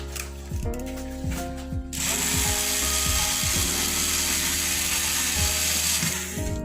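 Power screwdriver running steadily for about four and a half seconds, starting about two seconds in, over background music with steady held notes. A few light clicks of handling come just before it.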